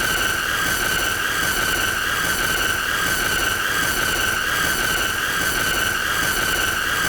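A continuous high-pitched screech, one shrill tone held steady with a slight waver over a hiss, repeating unchanged.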